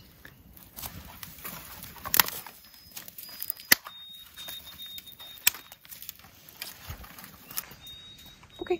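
Thin, high, steady whistled notes from a songbird, two of them held for over a second, with scattered sharp clicks and knocks.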